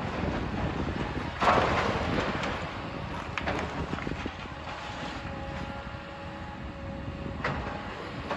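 Demolition machinery running with a steady rumble. About one and a half seconds in comes a loud crash of falling debris, followed later by a few sharper knocks.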